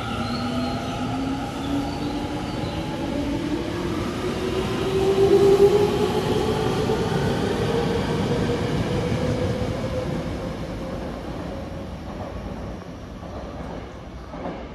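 Tokyo Metro 10000 series electric train departing: the motors' whine climbs steadily in pitch as it accelerates over running rumble. The sound is loudest about five seconds in and fades as the train leaves.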